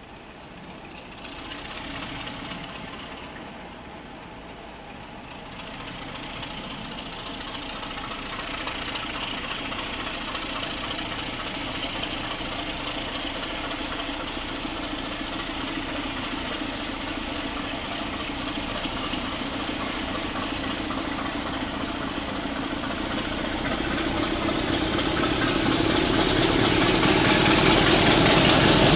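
Diesel train engine running, growing steadily louder as it approaches, and loudest near the end.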